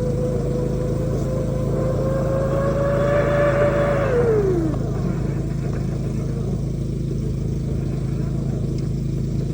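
Compressed-air dryer vent cleaning equipment running with a steady loud machine drone. A whine over it climbs slowly in pitch, then winds down quickly about four seconds in.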